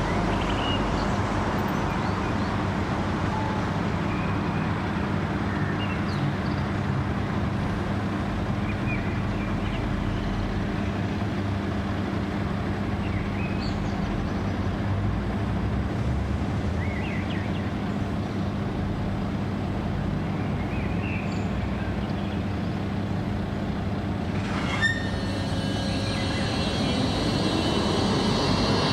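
Trams in a tram depot: a steady electrical hum and rolling noise. About 25 seconds in there is a click, followed by high-pitched squealing tones. Near the end a whine rises in pitch as a tram gets under way.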